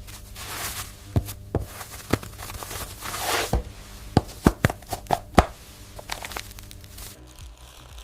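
Packaging being handled: packing material rustling in three short swells, with a string of sharp taps and clicks, over a steady low machine hum that stops near the end.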